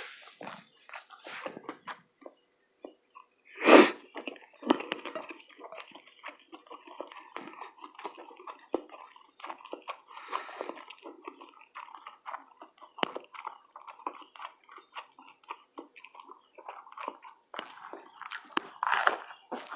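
Close chewing and mouth sounds of a person eating a fish, grits and toast breakfast, with many small wet smacks and clicks. There is one louder, sudden burst about four seconds in.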